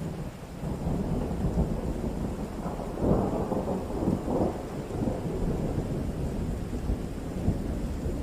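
Rolling thunder over steady rain: the rumble swells in at the start, peaks about three seconds in and keeps rumbling on.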